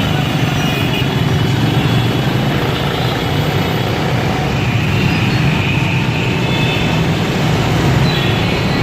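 Steady road traffic noise from passing vehicles, a continuous low rumble of engines and tyres.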